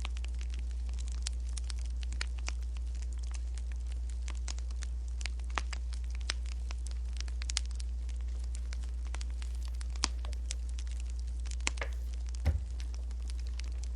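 Wood fire crackling: irregular sharp pops and snaps over a steady low hum, with one louder knock near the end.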